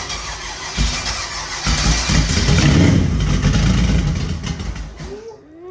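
LS 6.0-based 408 stroker V8 on an engine stand being cranked over by its starter: two short bumps, then a longer crank of about three and a half seconds that stops suddenly.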